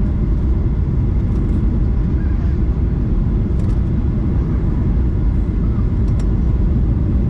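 Steady low rumble of engine and airflow noise inside the cabin of a Boeing 737 MAX 8 airliner, with a few faint small ticks or rattles.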